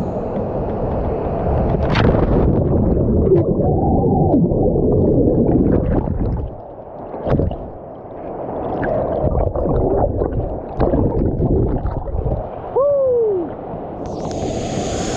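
Water churning and gurgling close to the microphone, muffled, with scattered clicks and a few short falling squeals, around 4 seconds in and again near the end.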